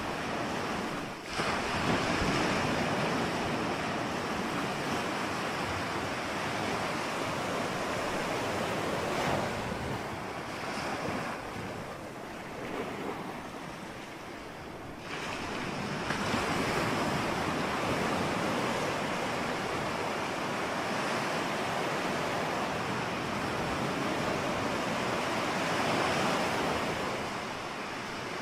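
Ocean surf: a continuous wash of breaking waves, with wind. The surf eases off for a few seconds, then swells back up about halfway through.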